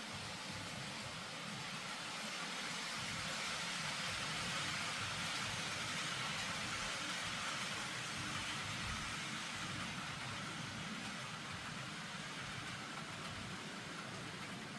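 N gauge model train running along the track, a steady whirring hiss that builds to its loudest about four to five seconds in, then slowly fades as it moves away.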